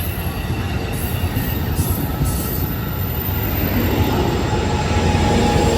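Amtrak Capitol Corridor push-pull train pulling out, pushed by its Siemens SC44 Charger diesel locomotive. The rumble grows louder as it moves off, and a thin wheel squeal comes in about four seconds in.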